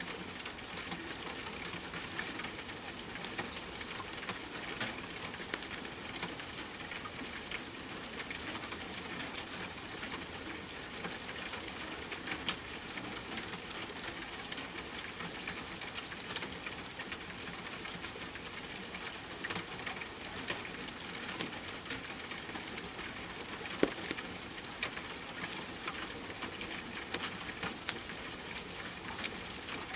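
Steady rain hiss layered with a wood fire crackling, many small snaps and pops scattered throughout, one louder pop about three-quarters of the way through.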